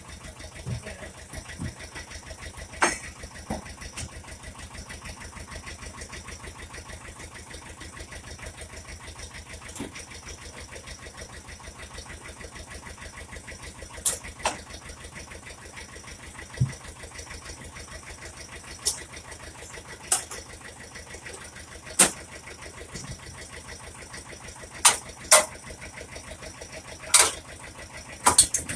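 Shenniu 4/25 compact tractor's diesel engine idling steadily with an even, rapid pulse. About a dozen short, sharp knocks are heard over it, most of them in the second half.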